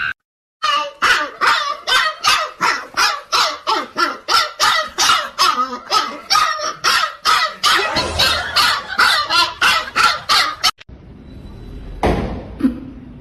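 A dog barking over and over in a fast, even run of about three barks a second, for roughly ten seconds, then stopping abruptly.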